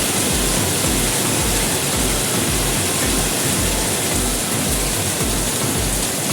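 Steady, heavy rain hiss, with a low beat of background music pulsing about twice a second underneath.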